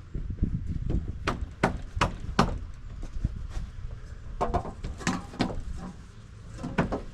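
Hammer blows on wooden deck framing: four quick strikes about a second in, a few more around the middle, and one near the end.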